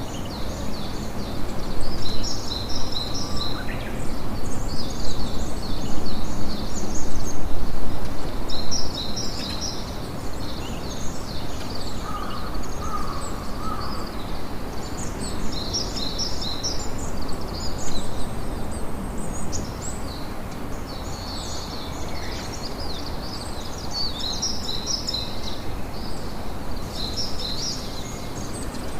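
Campfire crackling and hissing steadily, with birds chirping in short repeated bursts over it.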